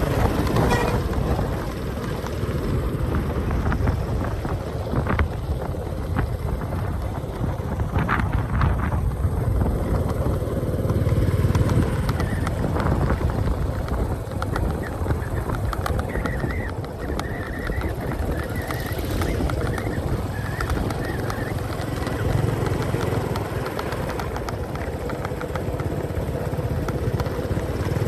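Motorcycle running steadily while being ridden along a road, its engine giving a low, even hum under a rumble of road and wind noise.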